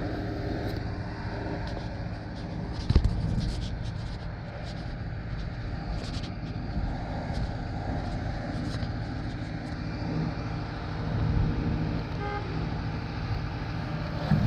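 Truck-mounted concrete boom pump's diesel engine running steadily while pumping, with one sharp knock about three seconds in.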